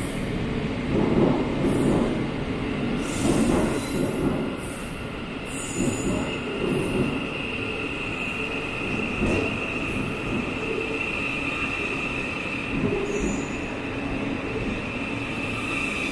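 Class 700 electric multiple unit standing at an underground platform, making a steady high whine that grows stronger about halfway through. A series of short, very high beeps and some rumbling clatter come in the first few seconds.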